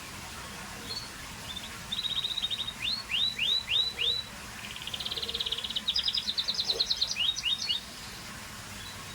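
Scotch Fancy canary singing: rapid trills, then a run of five quick downward-sweeping notes, then a longer fast trill that steps up in pitch and stops suddenly near the end.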